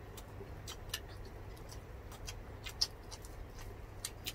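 Two people chewing close to the microphone: irregular small wet mouth clicks and smacks, about three or four a second, over a low steady hum.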